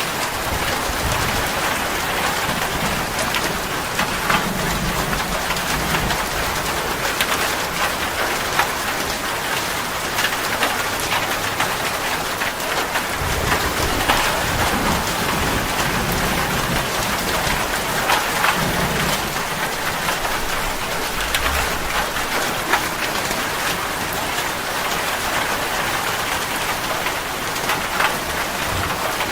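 Steady rain falling, with many single drops striking close by, and low rumbles that come and go a few times, likely distant thunder.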